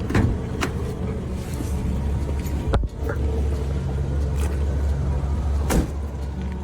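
A car's engine running with a steady low rumble, broken by about four sharp knocks or clicks: two near the start, one just before three seconds and one near the end.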